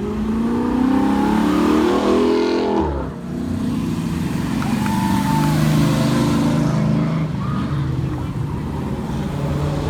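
Old car engines in a parade: one accelerating with its pitch rising over about three seconds, a short dip, then engine sound running steadily with small changes in pitch.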